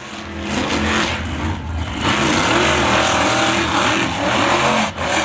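Monster truck engine revving hard, its pitch rising and falling over and over, with a brief drop in level near the end.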